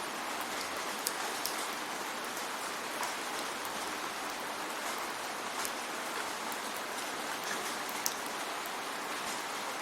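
Steady rain falling, an even hiss with sharp ticks of single drops hitting a surface scattered through it.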